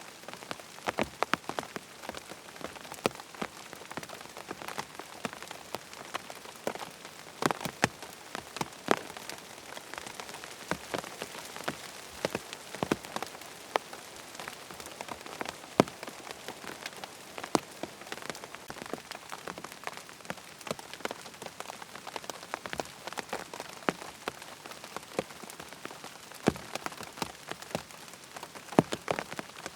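Steady rain falling on a tent, with an even hiss and many separate, sharp drop hits scattered irregularly throughout.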